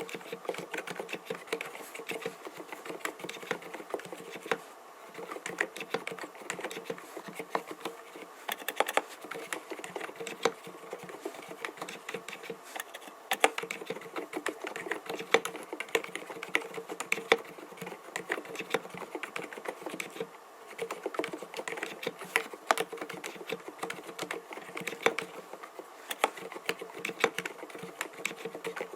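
mStone Groove T 87A custom mechanical keyboard with silent Milky 45 g switches being typed on continuously: fast, muted keystrokes, with short pauses about four and a half and twenty seconds in.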